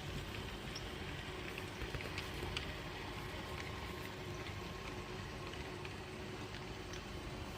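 HO-scale Key Imports four-truck Shay model locomotive running with its freight train: a steady mechanical hum with a faint held tone, and scattered light clicks from the wheels on the track, a few louder clicks about two seconds in.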